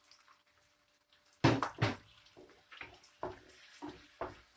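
Grated fresh tomato being poured and scraped from a bowl into a tagine: two heavy wet splats close together, then a string of lighter splats and knocks.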